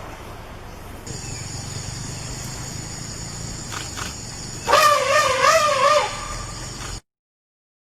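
Insects buzzing steadily as a high, even tone over a low hum. Near the middle there is a wavering, trumpet-like call lasting about a second, and the sound cuts off abruptly near the end.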